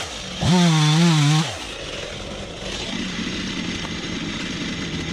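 Stihl MS251 two-stroke chainsaw revved to high throttle for about a second, about half a second in, then dropping back to a lower, steady run.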